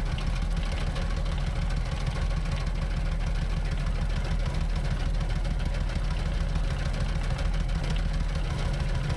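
Skid steer engine running steadily under the work of a hydraulic sickle bar mower, a constant low drone that does not change.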